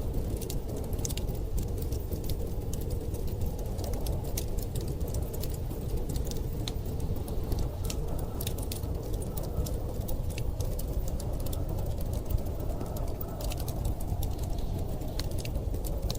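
Wood fire crackling, with frequent sharp pops and snaps, over a steady low rush of storm wind that carries a faint drawn-out howl.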